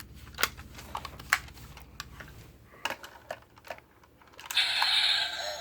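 Light plastic clicks and taps as a toy Porsche 911 is handled. About four and a half seconds in, the toy's electronic engine sound effect starts, a loud steady buzzy noise through its small speaker.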